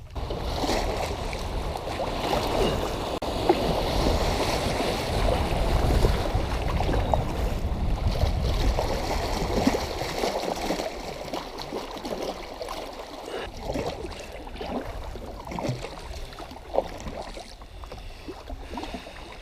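Creek water rushing and splashing around a kayak, loudest for the first ten seconds or so and then easing off.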